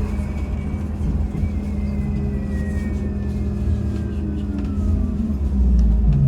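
MAZ-203T70 trolleybus under way: its electric traction drive whines over a steady low hum and road rumble, the whine falling slowly in pitch over a few seconds as the trolleybus slows. The rumble grows louder near the end.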